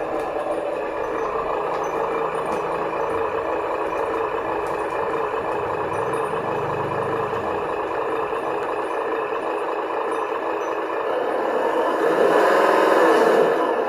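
Electric motor and gearbox of an RC model truck running with a steady whine. It grows louder and rises and falls in pitch near the end as the speed changes.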